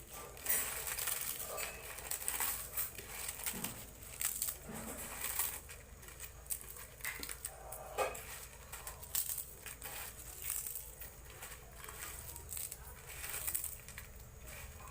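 Potato chips being crushed by hand on a plate: irregular crunching and crackling.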